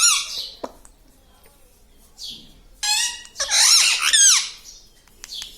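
Pet parrot's high-pitched calls. One call ends just at the start, a faint short one follows about two seconds in, and a loud call of several syllables comes about three seconds in.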